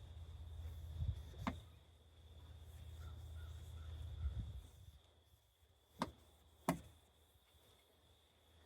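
A few sharp clicks and knocks, five in all, over a faint low rumble that dies away about halfway through.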